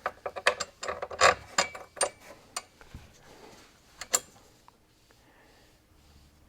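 Metal hardware clicking as a washer and nut go onto a truck seat base: a quick, irregular run of sharp clicks for about two and a half seconds, then a single loud click about four seconds in.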